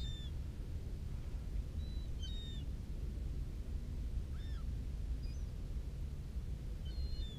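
Short, high bird calls, a few times about two seconds apart, over a steady low rumble.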